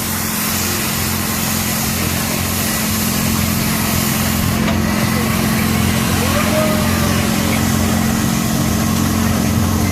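Steady low engine hum, holding one pitch, growing a little louder after about two seconds, with faint voices in the background.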